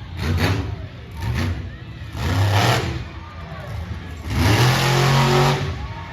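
Monster truck engine revving in repeated bursts, the longest and loudest about four to five and a half seconds in.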